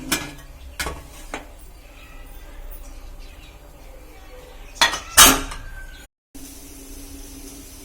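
Metal utensils clanking against a cooking pot, a few separate strikes, the loudest two about five seconds in. After a short break a steady low hiss follows.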